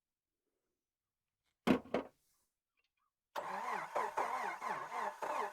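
Jeep YJ engine cranking on the starter without firing, with a brief bump of the starter first and then a slow, steady cranking of about three beats a second: the battery is running down.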